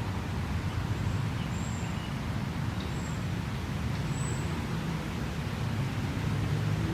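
Steady low outdoor background rumble with a handful of faint, short, high-pitched bird chirps over it.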